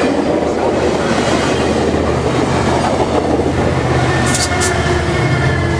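Sounder commuter train passing close by: its MP36PH-3C diesel locomotive drones and its wheels run loudly over the rails. Two short high squeaks come about four seconds in.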